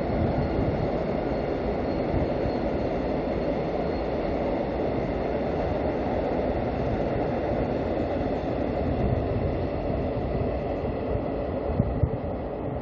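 Diesel-hauled freight train of container wagons running steadily along an elevated concrete viaduct: a continuous rumble of wheels on rails with a faint high whine above it, easing slightly near the end.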